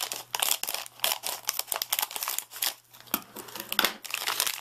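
Plastic packaging crinkling and tearing as a new hard drive is cut and pulled out of its wrapping, in a run of irregular crackles with a short pause about three seconds in.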